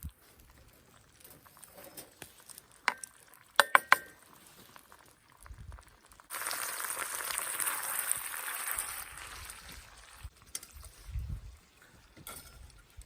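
Three or four sharp glassy clinks, then a hiss of liquid that starts suddenly about six seconds in and fades away over about three seconds.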